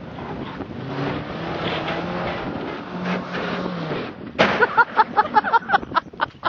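Car engine running and revving, its pitch wavering as the car drives in. About four seconds in it gives way to a rapid string of sharp, evenly spaced pulses, about five a second.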